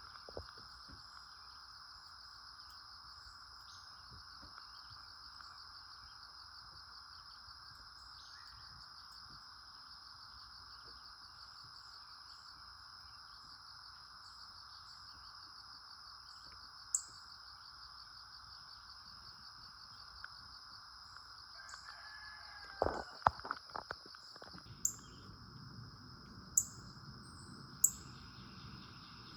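Steady insect chorus, a high even trill over a lower continuous buzz. About two-thirds of the way in come a few clicks, then several short, sharp, high bird chirps spaced a second or two apart near the end.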